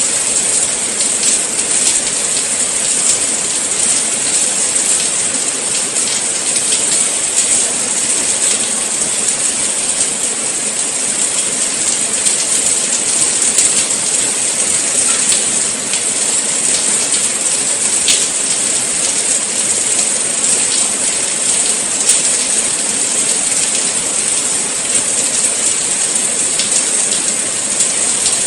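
Steady rain falling, a dense even hiss with fine drop ticks scattered through it.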